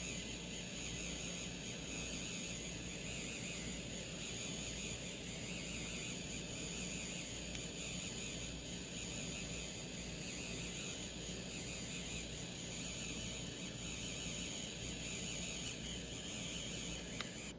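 A 3D printing pen running steadily, its small filament-feed motor and cooling fan whirring while it extrudes PLA filament.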